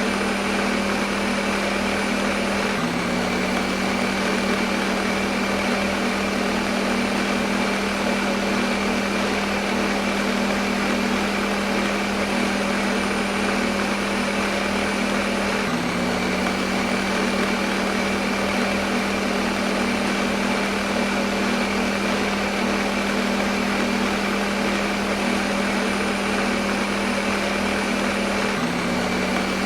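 Electric kitchen blender running continuously at a steady speed: a constant motor hum with a whooshing whir over it. The motor's pitch shifts slightly three times, about every 13 seconds.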